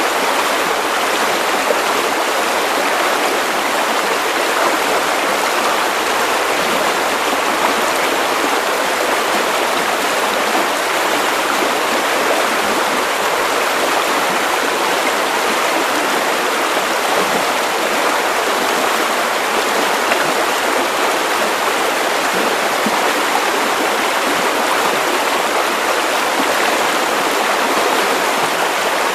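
Steady white noise: an even, unbroken hiss with no tones or rhythm, thin in the bass and fullest in the middle range.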